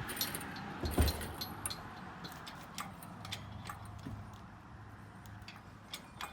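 Metallic clinks and ticks from an engine hoist and its chain as an engine and transmission are lifted out, with one heavy thump about a second in.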